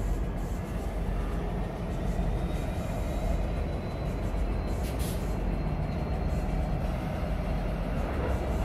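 Freight train locomotive approaching slowly, a steady low engine rumble, with a short hiss about five seconds in.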